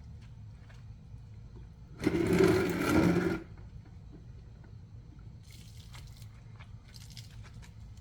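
Ryobi 2000 psi pressure washer triggered for about a second and a half. The pump motor hums and the water jet sprays, starting and cutting off abruptly, with fainter short spurts of spray later.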